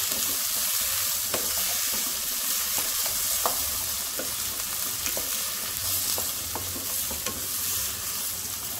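Chopped onions, tomatoes, garlic, ginger and cashews sizzling in hot oil in a frying pan, with a steady hiss. A wooden spatula stirs them, giving short scrapes and taps against the pan every second or so.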